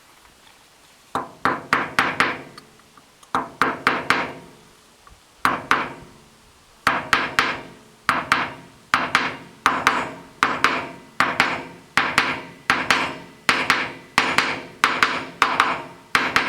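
Hammer tapping a part down into a hydraulic crane cylinder to seat it during a seal repack. First come a few short groups of quick taps, then a steady run of taps about every three-quarters of a second, each with a slight ring.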